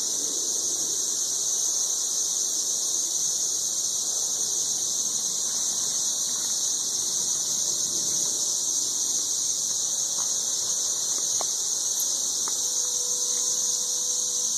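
Massed chorus of 13-year periodical cicadas calling from the treetops: a loud, steady, high-pitched droning that never breaks or changes in level.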